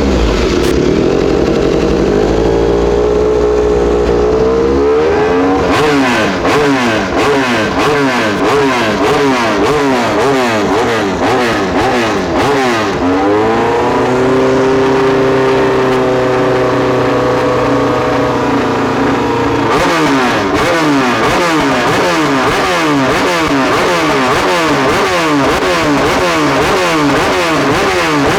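Racing motorcycles accelerating and shifting up through the gears, their engine notes climbing and dropping over and over as several bikes overlap. There are two spells of steadier held engine notes.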